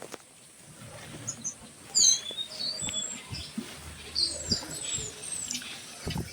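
Small birds chirping: quick, high, downward-sliding notes in short runs, loudest about two seconds in, with a few faint low knocks underneath.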